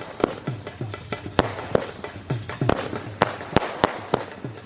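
Fireworks going off in a rapid, irregular string of sharp bangs and cracks, over music with a repeating low beat.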